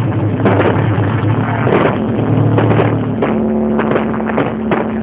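Fireworks going off in quick succession: a dense run of crackles and bangs from aerial shells and crackling effects.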